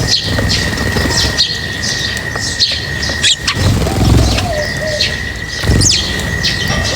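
A flock of small birds chirping and twittering at a feeding spot, many short, quick calls overlapping. A steady high whine runs underneath and drops out for about a second in the middle.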